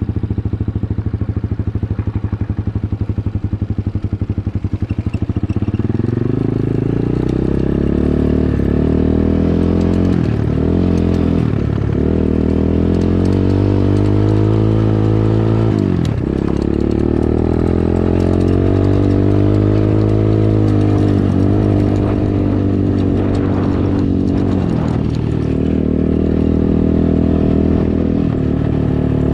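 Dirt bike engine running close by: a steady low idle, then revving up and riding off at about six seconds in. Its pitch climbs and falls back sharply several times, as the throttle is worked and the gears change.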